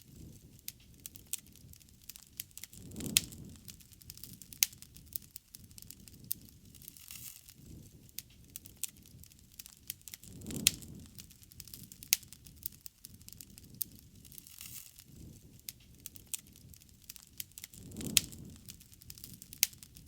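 Wood bonfire crackling steadily with irregular sharp pops and snaps. Three soft low rushing swells come about seven seconds apart.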